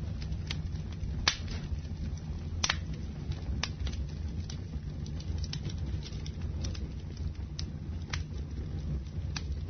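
Wood fire burning in a fireplace: a steady low rumble with sharp crackles and pops every second or so, two of them louder in the first few seconds.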